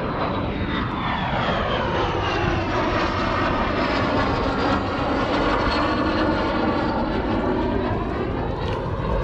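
Airplane engine noise from a low pass overhead, a continuous loud drone whose pitch slowly falls as the aircraft draws away, with a swirling, sweeping quality through it.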